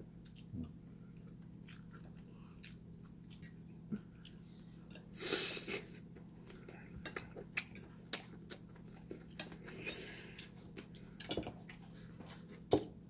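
A person chewing food close to the microphone, with scattered light clicks. A short rushing noise about five seconds in is the loudest moment, over a steady low hum.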